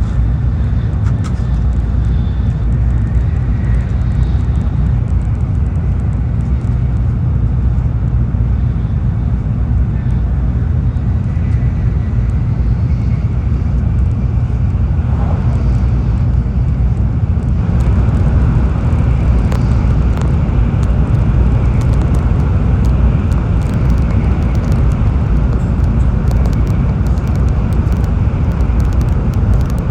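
Cabin noise of a Tokaido Shinkansen train running at speed: a steady, loud low rumble of wheels and running gear, growing a little louder and brighter about 18 seconds in.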